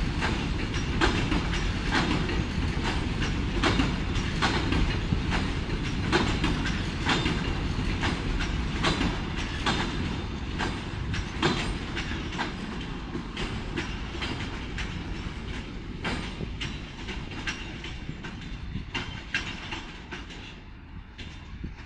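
Freight train of enclosed car-carrier wagons rolling past, its wheels clacking over the rail joints over a steady rumble. The clacks and rumble fade away over the last several seconds as the end of the train draws off.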